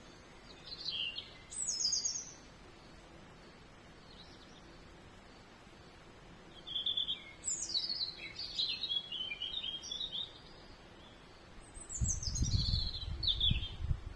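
A songbird singing three phrases, each a quick run of notes falling in pitch, with pauses of a few seconds between them. A low rumble, like wind on the microphone, comes in under the last phrase.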